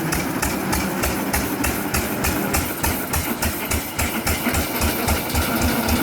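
1917 Fairbanks Morse Model Z 6 hp single-cylinder hit-and-miss engine running at a steady, even beat of about four firing thumps a second. It fires every cycle with no misses.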